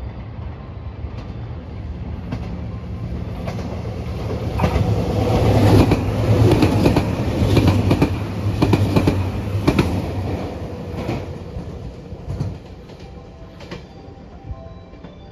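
JR Shikoku 2700 series diesel limited express passing through a station at speed. The engine drone and rail noise build up, then a run of sharp wheel clacks over the rail joints comes at the loudest point in the middle, and the sound fades away after that.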